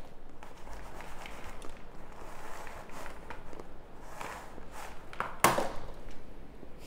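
Chunks of pressure-cooked, oven-baked cornstarch crunching as they are bitten and chewed: a run of irregular crackles with one loud crunch about five and a half seconds in.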